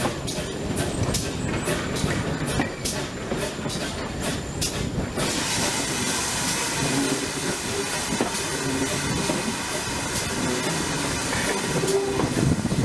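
Steam train hauled by GWR pannier tank engines: a run of short clicks for about five seconds, then a steady hiss that starts suddenly and carries on to the end.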